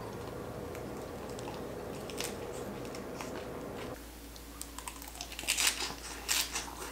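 A person chewing a mouthful of lettuce wrap with crispy fried fish: crunching clicks, faint at first and loudest over the last few seconds.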